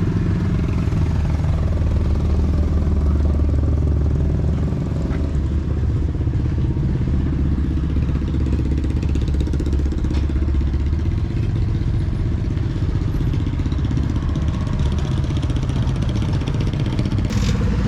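A motor vehicle's engine running steadily as a low rumble, its note shifting about two-thirds of the way through.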